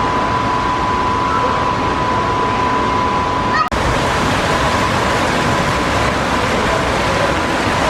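Loud, steady rushing noise with no pitch, with an abrupt break in the recording about three and a half seconds in.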